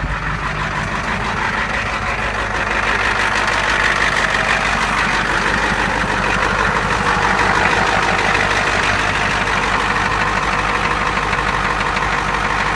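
Ford 7.3 L IDI V8 diesel of a 1990 F250 idling just after a cold start at 26 °F with no block heater, with a heavy, even diesel rattle. It gets a little louder about three seconds in and holds there.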